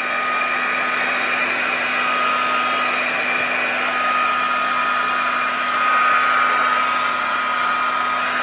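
Heat gun running steadily: a hiss of blown air with a steady fan whine, heating a warped pinball playfield plastic to soften it for flattening.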